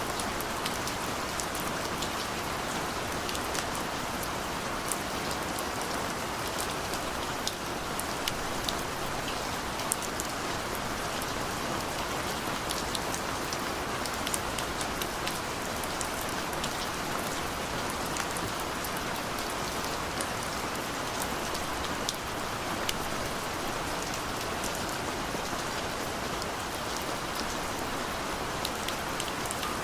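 Steady rain falling, an even hiss with many individual drops ticking on a surface throughout.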